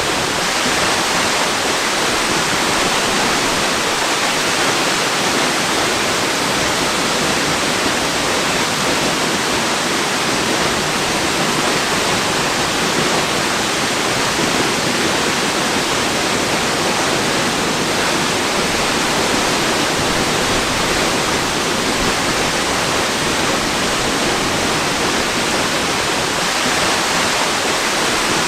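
Waterfall: a steady, unbroken rush of falling water, with no pauses or separate splashes.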